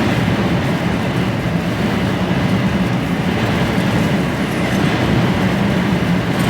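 Steady drone inside the cab of a heavily loaded HGV lorry driving at road speed: engine and road noise.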